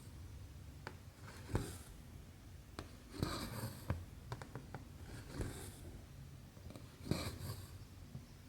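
Needle and thread drawn through 11-count cross stitch fabric: four soft rasping swishes of thread, about two seconds apart, with small ticks of the needle between them.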